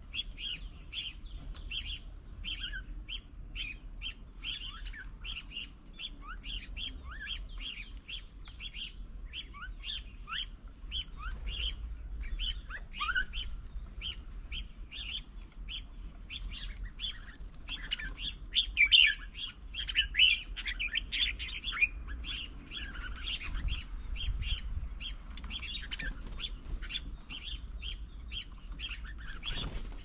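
Birds chirping continuously, short high calls repeating about two a second, with a few fainter rising whistles from other birds behind.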